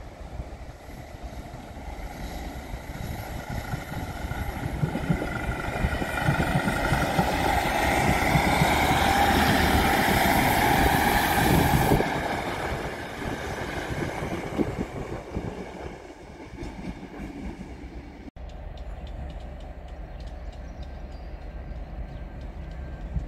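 A passenger multiple-unit train approaching and passing along the tracks. Its noise grows steadily to a loud peak over about ten seconds and then breaks off suddenly, leaving quieter steady rail noise.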